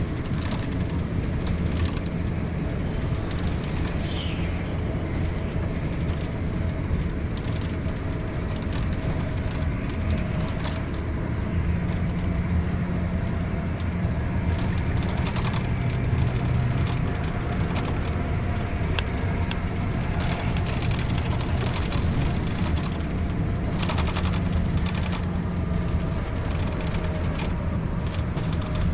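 Scania K410iB bus's 13-litre inline-six diesel running under way, a steady low drone with road noise whose engine note shifts a few times.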